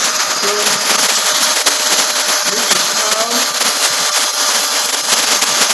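Steady loud machinery hiss with a faint high-pitched whine, and faint voices underneath.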